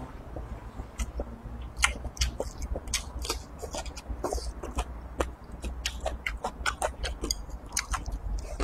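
A person chewing a mouthful of edamame stir-fried with pork belly, with wet mouth smacks and crunches: an irregular run of sharp clicks throughout.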